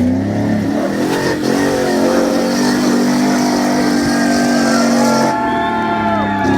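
Jeep J-truck's engine revving hard and holding high revs under load as the truck climbs over slickrock, with a hiss that cuts off about five seconds in as the revs settle.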